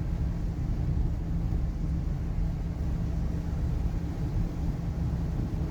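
Car driving along: steady low road and engine rumble heard from inside the cabin.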